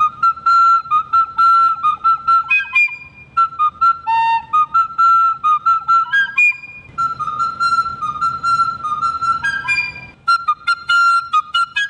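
Recorder played in quick, short, tongued notes, mostly repeating one high note with a few brief lower notes in between.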